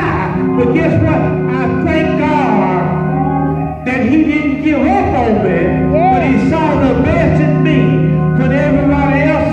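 Church music: a voice singing over held instrumental chords with a steady bass, the voice's pitch bending and gliding throughout.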